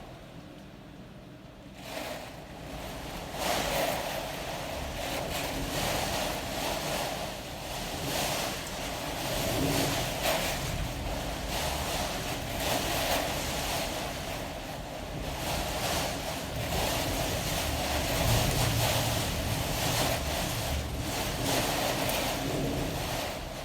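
Hurricane Dorian's wind blowing in gusts: a rushing noise that swells and eases every few seconds, with a low rumble of wind buffeting the microphone. It picks up about two seconds in.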